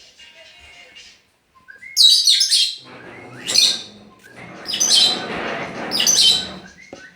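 Pet bird calling loudly: about four shrill, high calls roughly a second apart, starting about two seconds in.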